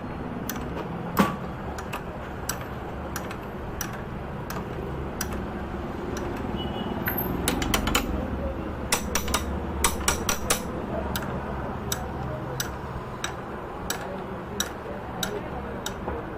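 Ratchet wrench clicking as a bolt is tightened to draw an old engine mount bush out with a makeshift bolt-and-socket puller: sharp clicks roughly every two-thirds of a second, coming in quicker runs around halfway, over a steady low hum.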